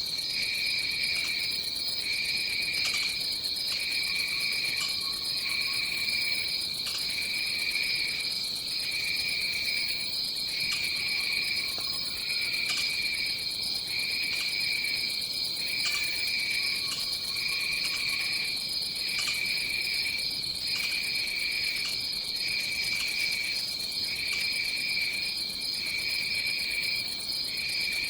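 Rainforest insect chorus: a constant high trill with a second, lower trill pulsing on and off about once a second. A few faint low calls come in now and then.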